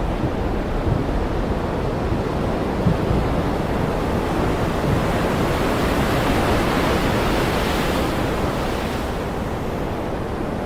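Ocean surf washing steadily, with one wave building about halfway through and falling away near the end.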